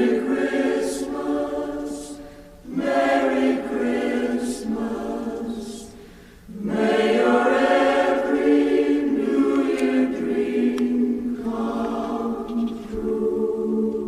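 Background music: a choir singing long held notes in three phrases, with short breaks about three and six and a half seconds in, the closing bars of a Christmas song.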